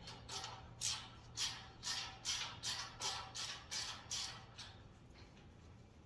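Hand ratchet tightening screws, its pawl rattling on each back-and-forth stroke, about two to three strokes a second, dying away about five seconds in.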